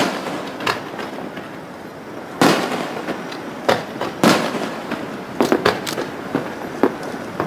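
Aerial fireworks shells bursting over the Kanmon Strait: about seven or eight sharp bangs at irregular intervals, each fading over a second or so. The loudest come about two and a half seconds in and just past four seconds, with a quick run of three around five and a half seconds.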